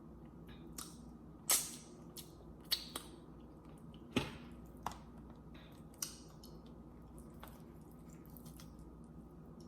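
Mouth sounds of someone eating: a handful of short, wet smacks and clicks of chewing in the first six seconds, then only faint room tone.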